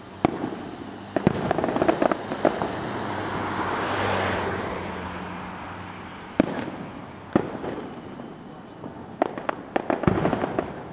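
Aerial fireworks shells bursting with sharp bangs at irregular intervals. A rushing hiss swells and fades between the early and middle bangs, and a quick cluster of bangs comes near the end.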